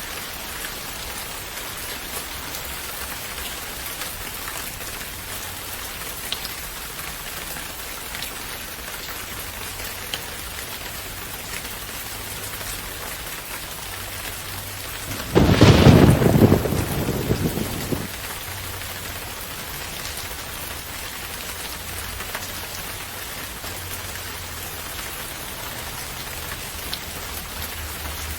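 Steady rain falling, with faint scattered drop ticks. A little past halfway a single loud thunderclap breaks in suddenly and rumbles away over about two and a half seconds.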